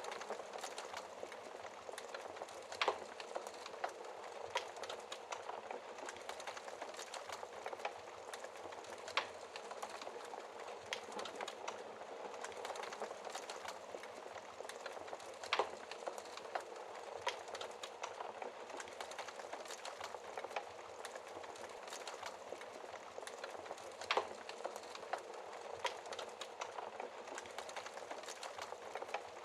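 Wood fire crackling in a fireplace: a steady soft hiss with frequent small crackles and a handful of louder, sharper pops.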